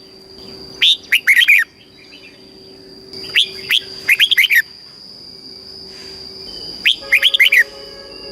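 Red-whiskered bulbul singing its short, bright song phrases, each a quick run of whistled notes. The phrases come four times, a second or two apart.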